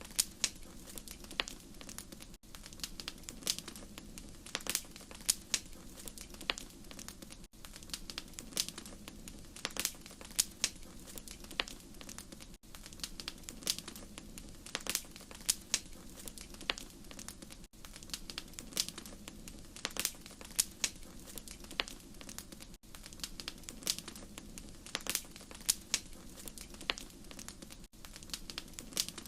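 Wood fire crackling in a fireplace: irregular sharp pops and snaps over a steady low rumble of flame. A brief dropout comes about every five seconds.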